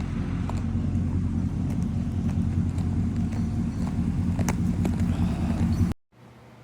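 Tractor engine running steadily with a low drone. The sound cuts off abruptly near the end.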